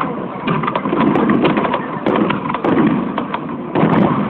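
Aerial firework shells bursting: a dense, continuous rumble of booms with crackling, and a sudden loud bang near the end.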